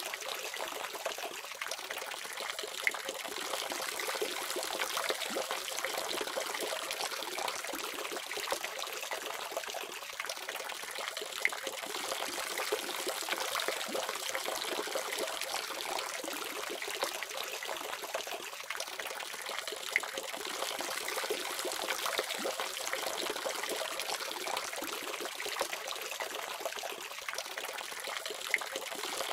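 Water running steadily from a faucet, a constant splashing trickle with no pause, carrying little deep sound.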